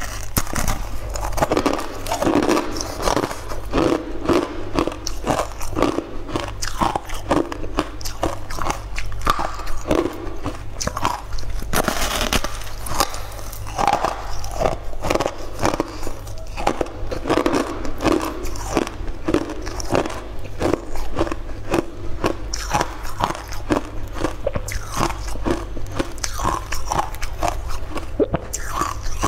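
Close-up biting and chewing of a hard, crunchy purple slab crusted with crystal-like chunks: a dense run of sharp cracks and crunches that keeps going throughout.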